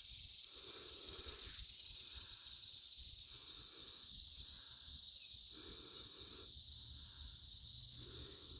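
Steady high-pitched chirring of insects, with a softer chorus that swells and fades about once a second and a low wind rumble on the microphone.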